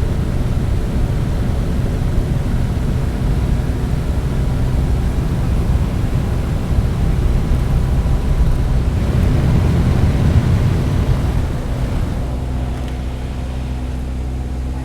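Aircraft cabin noise with a loud rush of wind, as of a window opened in flight, over a steady low engine hum. About twelve seconds in the rush eases, leaving mainly the hum, and the sound cuts off at the end.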